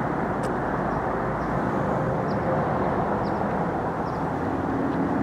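1937 Indian Sport Scout's 45 cubic inch flathead V-twin engine running steadily while the bike is being ridden.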